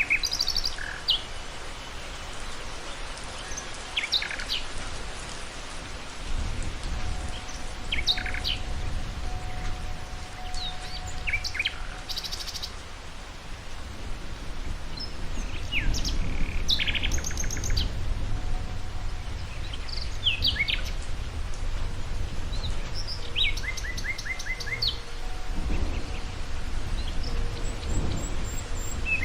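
Several songbirds chirping and trilling on and off, short calls scattered throughout, over a steady background hiss and a low rumble that comes and goes.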